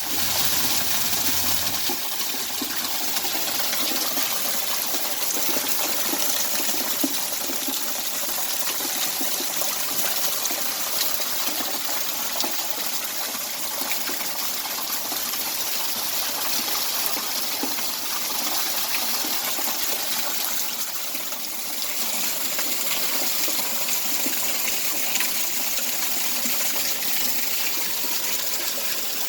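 Heavy rain pouring down steadily, a dense even hiss of falling drops.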